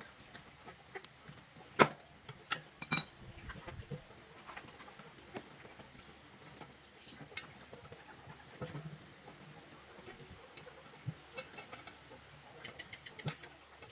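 Scattered light clicks and knocks, the sharpest about two seconds in, with chickens clucking faintly in short runs near the end.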